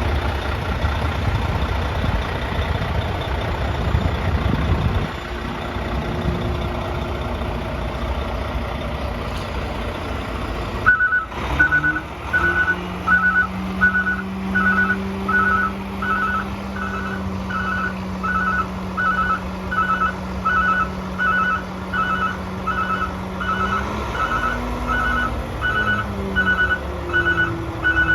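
Heavy truck's Volvo D13 diesel running, then about eleven seconds in a backup alarm starts beeping steadily, about once a second, over the engine, whose note rises and falls again near the end.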